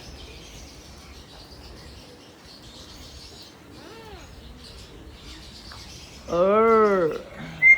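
Caged parrots and smaller birds chirping faintly in an aviary. About six seconds in comes one loud drawn-out call that rises and falls in pitch, followed by a brief high whistle.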